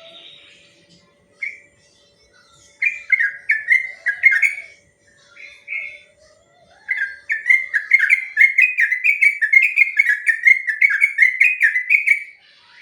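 Yellow-vented bulbul (trucukan) singing. A few short bubbly phrases come first, then about halfway through a long rapid roll of quick notes, about four a second, that runs almost to the end.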